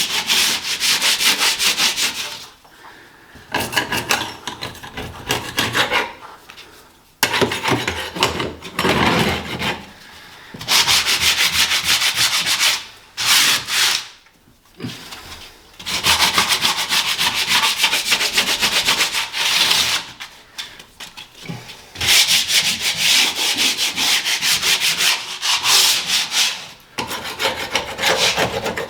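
Hand sanding of a painted ceiling with coarse 60-grit abrasive paper: rapid scratchy back-and-forth strokes in spells of a few seconds, with short pauses between them, taking flaky, blistered paint back to a hard edge.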